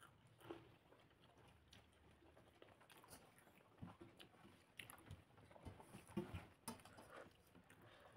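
Faint sounds of a person eating by hand, chewing and biting rice and green chilli: scattered soft mouth clicks and smacks, more frequent in the second half.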